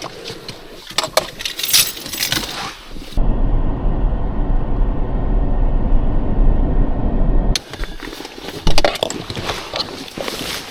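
Light metallic jingling and clinking, like keys or gear jostling with each step, with irregular sharp clicks. For about four seconds in the middle this gives way to a steady low rumble, like wind buffeting the microphone, before the clinking returns.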